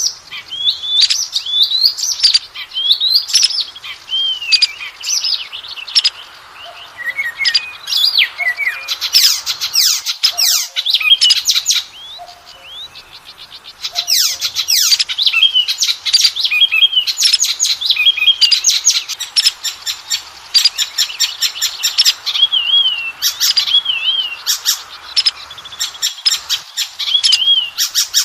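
Oriental magpie-robin (kacer) singing loud, varied song: clear whistled notes and slurred phrases mixed with fast rattling runs of harsh notes, with a short pause about halfway through.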